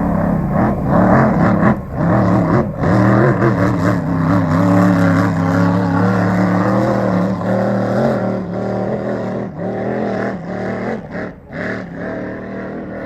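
Racing powerboat engine running loud and steady, then fading away over the last few seconds.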